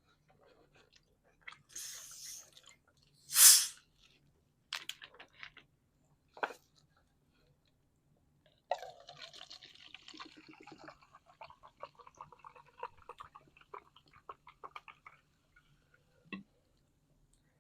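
A person eating a calzone close to the microphone: scattered bites and wet mouth sounds, with one loud, sharp sound about three and a half seconds in. From about nine seconds in comes several seconds of steady, crackly chewing.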